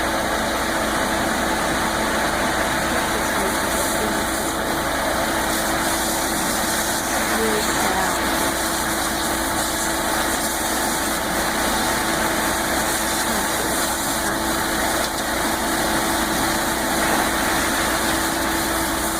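Concrete mixer truck's engine idling steadily with a constant hum.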